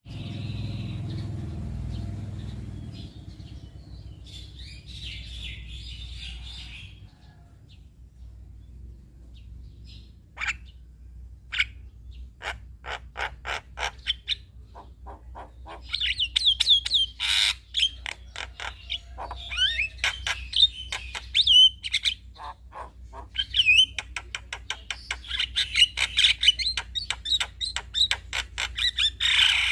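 Male Javan myna (jalak kebo) singing its chattering song: runs of fast clicks, short whistles and trills, sparse at first and busier from about halfway through. A low rumble underlies the first few seconds.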